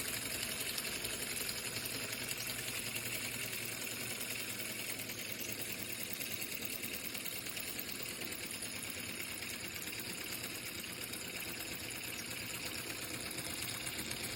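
Small 3D-printed reciprocating air engine running on air from a party balloon, a fast, steady clatter of rapid ticks.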